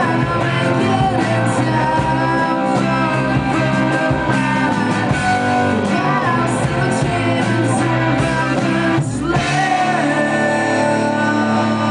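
A rock band playing live: electric guitars and bass with drums and a singing voice. About nine seconds in, the full band drops out briefly and a thinner, sustained part carries on.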